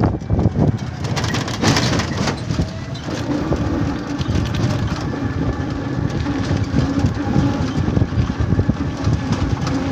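A motor vehicle running, with a heavy low rumble; about three seconds in, a steady engine hum joins it.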